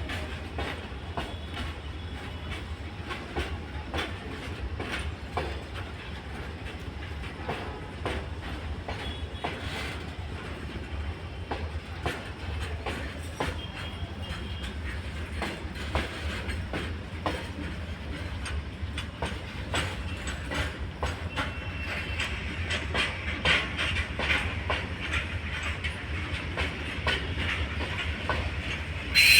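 Loaded BCNA freight wagons rolling along the track, their wheels clicking over rail joints in an uneven stream above a steady low rumble. A higher wheel squeal creeps in over the last several seconds.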